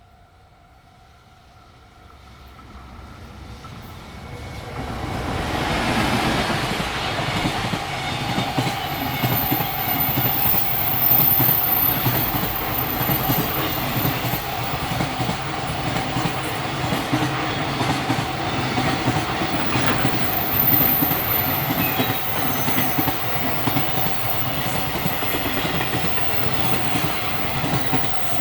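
Freight train approaching and then passing close by: a rumble and clatter of wagon wheels over the rail joints grows over the first few seconds, then holds steady and loud as the long train of wagons goes past. A thin, very high wheel squeal comes in twice.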